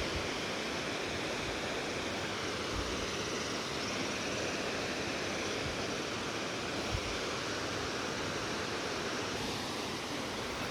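Waterfall rushing: a steady, even wash of falling water, with two brief low thumps on the microphone.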